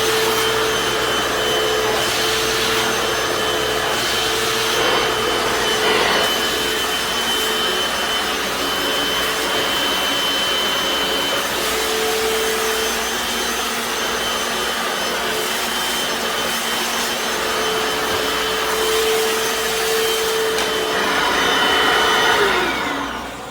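Hoover FloorMate Deluxe hard-floor cleaner running in wash mode, its motor and scrubbing brushes working steadily over tile. Near the end the motor winds down with a falling whine.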